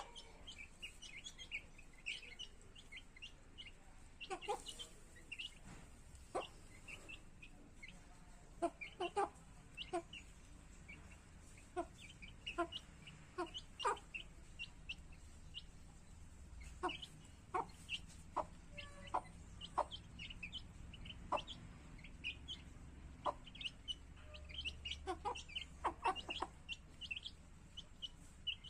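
Native country chickens clucking on and off, with frequent short high-pitched peeps from chicks scattered throughout.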